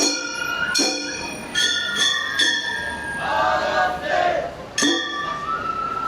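Gion-bayashi festival music: small brass kane gongs struck in a repeating pattern, each stroke ringing clear and metallic, over a high transverse flute melody. The gongs pause for about two seconds in the middle while the flute carries on.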